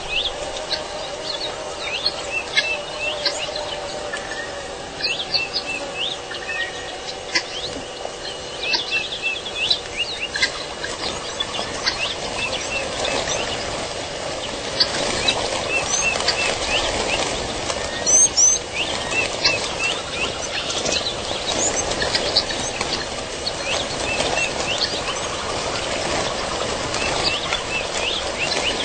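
Wild birds chirping and calling in short, quick notes, many overlapping, over a steady background hiss.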